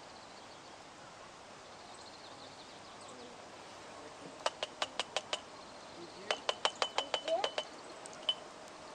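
Two quick runs of sharp clicks or clinks, about six and then about nine, coming several a second, with a single click after them.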